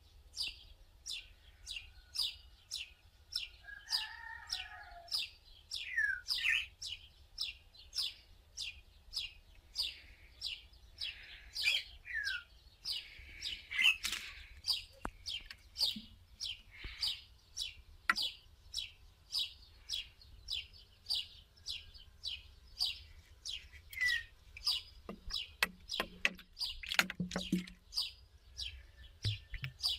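Small birds chirping: short falling chirps repeated about twice a second, with a few other bird calls mixed in.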